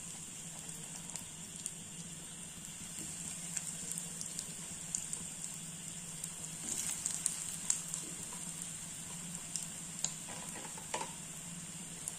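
Bread-crumb-coated potato cutlets shallow-frying in hot oil in a nonstick pan: a steady sizzle with scattered crackles and pops, busiest a little past the middle as more cutlets go in.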